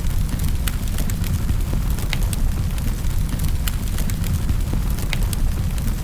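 Fire burning in a fireplace: a steady low rumble of flames with irregular sharp crackles and pops, a few each second.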